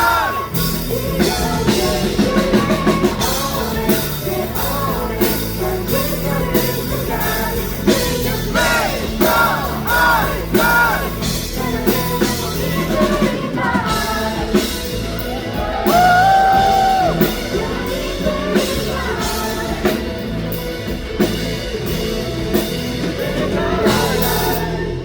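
Live rock band playing loudly: female lead vocals over a drum kit, bass and guitars.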